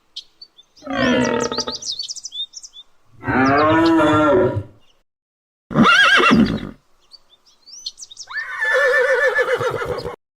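Four separate drawn-out calls from a large animal, each a second or so long with gaps between them, and small birds chirping over them.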